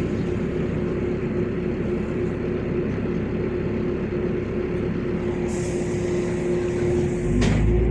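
LiAZ 5292.65 city bus heard from inside the cabin, its engine idling steadily with a constant whine at a stop. A short hiss comes about seven seconds in, and the engine grows louder as the bus begins to pull away.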